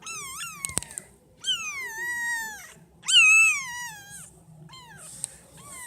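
Week-old kitten mewing: about four high-pitched cries in a row, each falling in pitch. A short click comes under the first cry.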